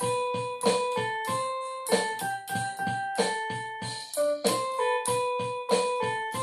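Instrumental break in a ballad: a piano plays a melody of struck notes, about three a second, each ringing and fading over held chords.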